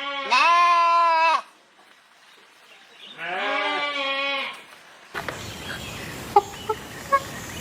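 Two long, wavering bleats, each lasting about a second and a half, with a pause of about two seconds between them. About five seconds in, the sound gives way to a steady outdoor hiss scattered with short high chirps and clicks.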